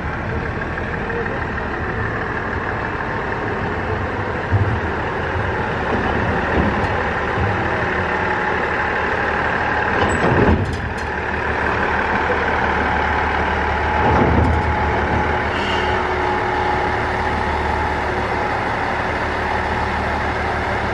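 Diesel railcar engine idling steadily, with a brief clank about halfway through.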